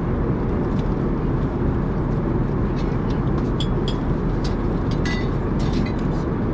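Steady, loud low rumble of an Airbus A380 cabin in flight, the engines and airflow heard through the fuselage. A few light clicks and clinks sound over it in the second half.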